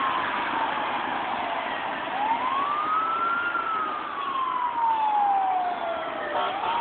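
An emergency-vehicle siren wailing in slow, long sweeps. Its pitch falls, climbs about two seconds in, then slides slowly down for about three seconds before starting to rise again near the end, over a steady background rumble.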